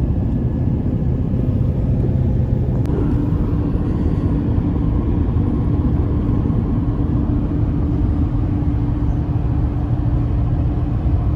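Steady low rumble of a vehicle's engine and tyres driving along a highway, with a steady hum coming in about three seconds in.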